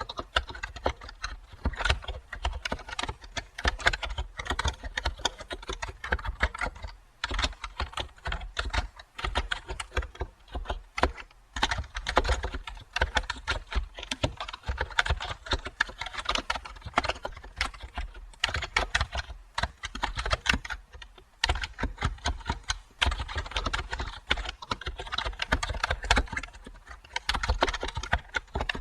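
Computer keyboard typing: a steady stream of irregular key clicks, with short pauses now and then.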